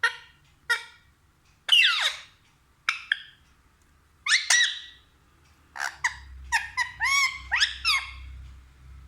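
Pet parrot giving a series of short, sharp calls, each falling in pitch. The calls come in quick succession in the last few seconds.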